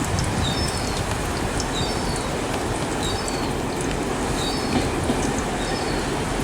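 Train rolling through the station with a steady rumble and hiss, and short high falling chirps recurring about once a second.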